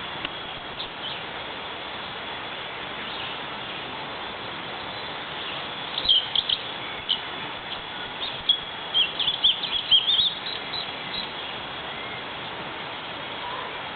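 A bird chirping: a quick run of short, high calls from about six to eleven seconds in, over a steady hiss.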